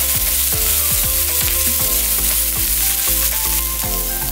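Chopped onion, garlic and bird's eye chili sizzling in hot oil in a frying pan while being stirred with a wooden spatula, over background music with a steady beat.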